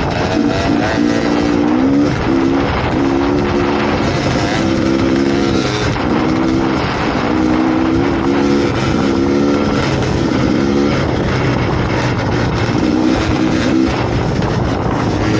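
Dirt bike engine running under way, its pitch climbing and dropping again and again as the throttle is worked and gears change, over wind and riding noise.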